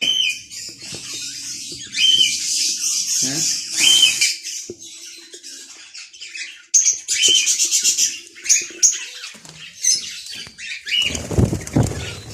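Budgerigars squawking and chattering in repeated high-pitched bursts. A louder rustle, like wings flapping or movement in the cage, comes near the end.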